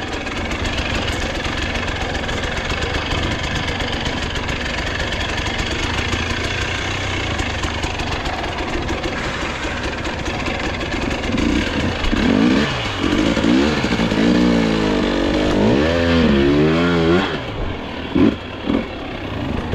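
Dirt bike engine running steadily under load, then from about halfway revving up and down over and over in quick rises and falls, before easing off near the end.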